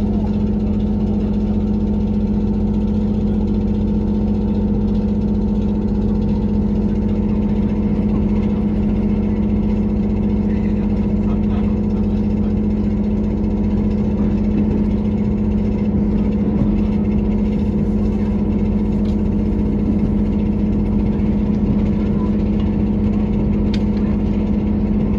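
KiHa 183 series diesel railcar engine running at a steady speed, heard inside the passenger car as a constant droning hum with a rattling noise that the uploader takes for an abnormal sound, a fault or old age.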